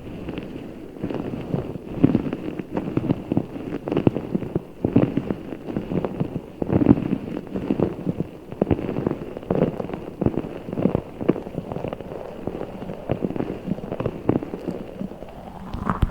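Hands squeezing and squishing a giant Orbeez water-bead ball close to the microphone, making irregular crackly squelches several times a second.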